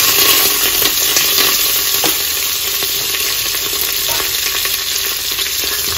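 Chopped red onion, green chillies and curry leaves sizzling in hot oil in a metal pot: the tempering (thalippu) for curry leaf rasam. The hiss is loudest as they go in and eases slightly over the next few seconds.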